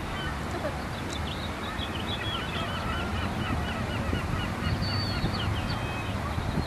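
Gulls calling: many short, high, repeated calls from several birds overlapping.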